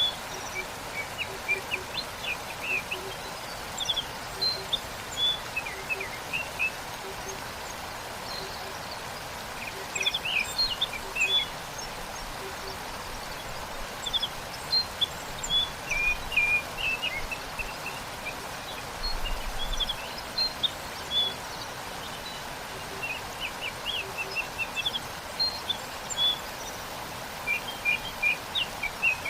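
Steady rush of a waterfall, with small birds chirping in short, repeated bursts throughout.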